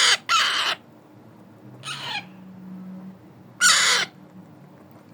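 Alexandrine parakeet chick giving four harsh, noisy calls, each about half a second long; the third, about two seconds in, is shorter and quieter.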